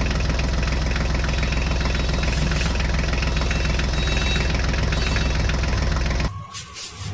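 Toy tractor running with a steady engine-like drone, which cuts off suddenly about six seconds in.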